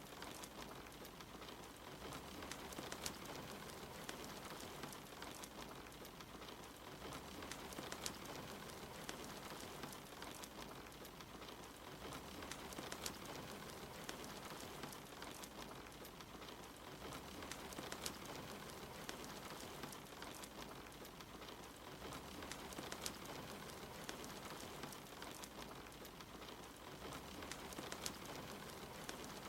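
Steady rain hissing evenly, mixed with a crackling wood fire in a fireplace that gives scattered sharp pops.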